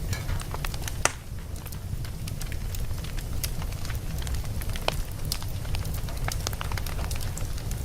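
Wood logs burning in a fireplace: a steady low rumble of flames with irregular crackles and snaps, and a sharp pop about a second in.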